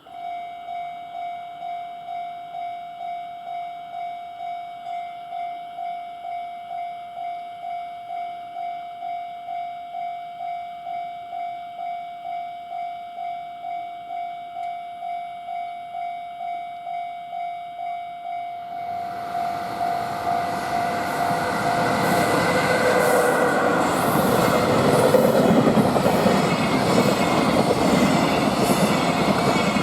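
Japanese level-crossing warning bell ringing, a single tone struck about twice a second. About nineteen seconds in, a freight train arrives and passes with loud rolling noise and wheel clatter over the rail joints, while the bell keeps ringing underneath.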